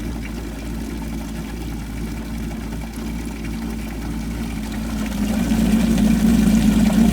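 Jet ski engine idling out of the water while being flushed through a hose fitting; about five seconds in the engine gets louder.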